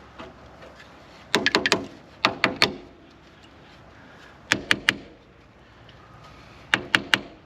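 Four quick clusters of sharp taps, three or four strikes each, a second or two apart.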